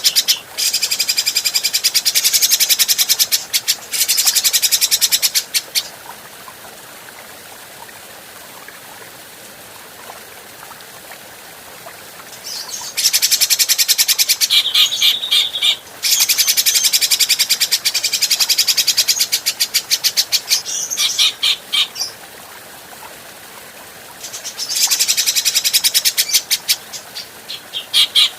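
Grey-cheeked bulbul (cucak jenggot) calling in long bouts of very fast, rattling chatter, high-pitched. There are three bouts, each several seconds long, with pauses of a few seconds between them that hold only a faint hiss.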